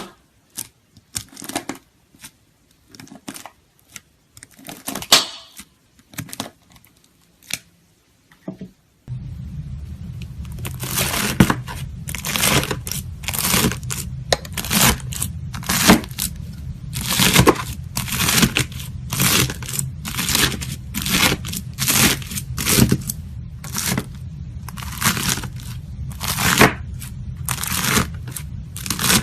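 Crunchy slime being cut with a knife, crackling sharply with each stroke. At first the crackles come sparsely with quiet gaps. After about nine seconds a steady low hum comes in, and the crackles become denser, about two a second.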